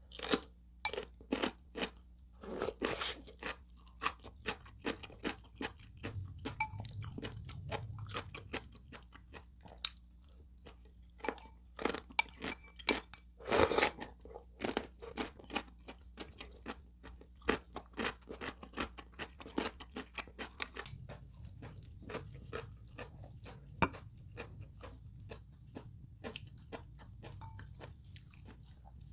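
Close-miked eating sounds: a person biting and chewing food, with many short wet clicks and smacks of the mouth and a louder, longer mouth sound about halfway through.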